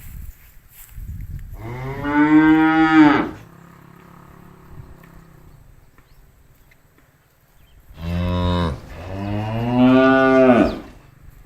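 Cow mooing: one long moo a couple of seconds in, then about five seconds later a short moo followed straight away by a longer one.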